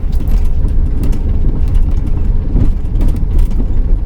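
Inside the cab of a 2008 Pleasure-Way Ascent camper van on the move: steady low engine and road rumble, with small rattles and clicks.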